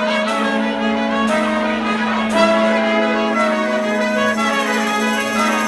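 Live brass band playing: horns carry a tune over a long held low note, with a percussion hit about once a second.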